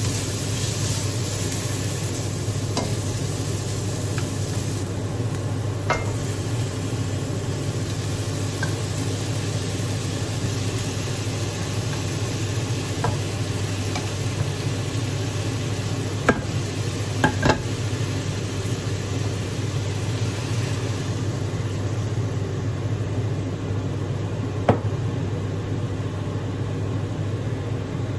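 Garlic, onion and then chicken pieces sizzling and frying in oil in a metal wok, over a steady low hum. A few sharp knocks of the spatula against the wok, the loudest a cluster of three about two-thirds of the way through and one more near the end.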